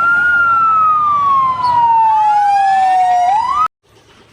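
Emergency-vehicle siren wailing: one slow falling sweep, then a quick rise near the end before it cuts off suddenly.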